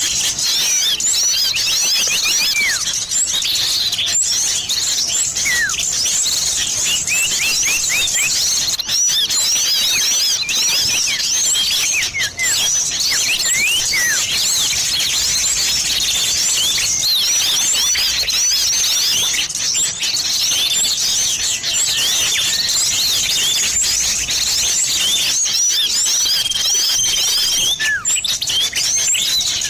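Dense, continuous chorus of small-bird chirps: a lure recording of sirtu and cipoh (common iora) calls for catching small birds. Rapid short chirps run without a break, with a few longer falling whistles scattered through and one held steady whistle near the end.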